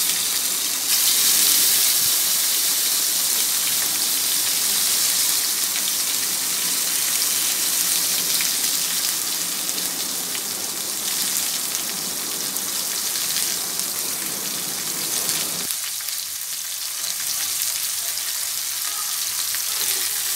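Tilapia tail and tomato halves frying in hot mustard oil in a pan: a steady sizzle that turns hissier about a second in.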